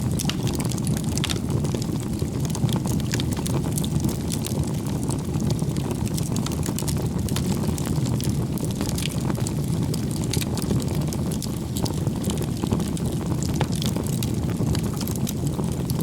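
Wood campfire burning: a steady low rush of flames with frequent sharp crackles and pops from the burning firewood.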